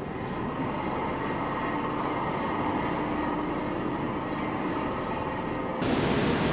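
Boat's engines running steadily, a mechanical drone with faint steady tones. Near the end it gives way abruptly to a louder, broader rush of wind and water noise.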